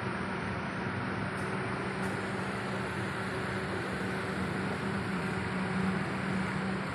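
Steady running noise of a car, an even hum with a constant low drone and no change in pace.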